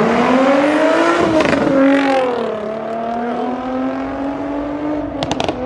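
A car engine accelerating hard as it passes, its pitch climbing, dropping with an upshift about two seconds in, then climbing again. A few sharp cracks come near the end.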